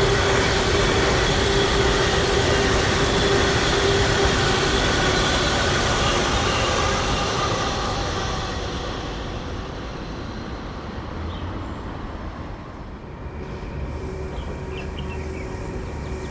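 A train passing on the line, loud with a steady hum and a higher whine through the first half, then fading away over a couple of seconds about halfway through.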